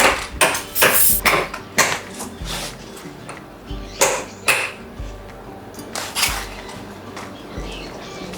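Irregular sharp clinks and knocks of hard objects striking, about a dozen, crowded together in the first two seconds and again around four to six seconds in, over steady background music.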